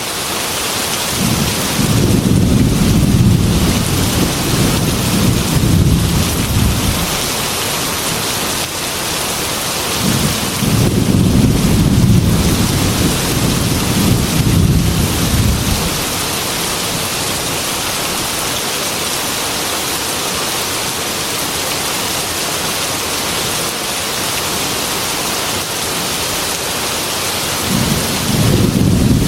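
Heavy rain falling steadily, with three long, deep rolls of thunder: one from about a second in lasting some six seconds, another from about ten seconds in, and a third starting near the end.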